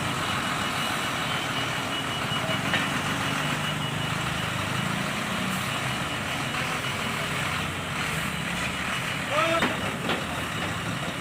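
Eicher dump truck's diesel engine running steadily.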